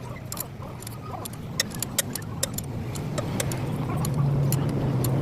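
A quick series of sharp metallic clicks and taps, typical of hand tools on truck parts, over the steady low hum of a running engine that grows louder near the end.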